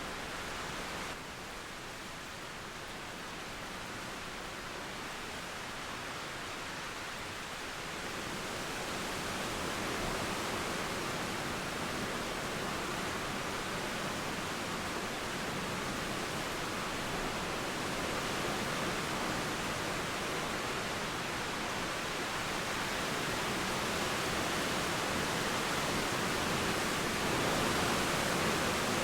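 Steady rain mixed with a flowing river: a continuous even hiss with no thunder claps. It dips slightly about a second in, then grows gradually louder from about eight seconds in.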